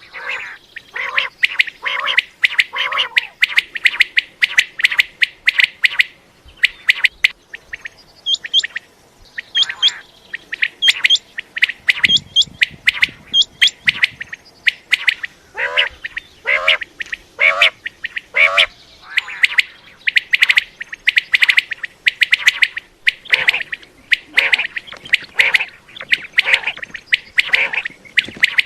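Common quail calling over and over, many short calls in quick succession, some in runs of three.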